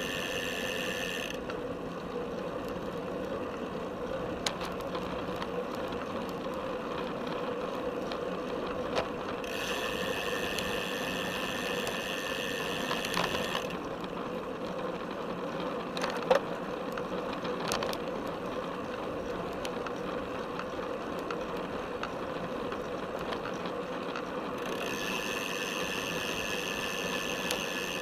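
Road bike rolling along a paved path, heard from a camera strapped to its top tube: the drivetrain rattles and ticks mechanically, with a few sharp knocks from bumps. A high, steady buzzing comes and goes three times.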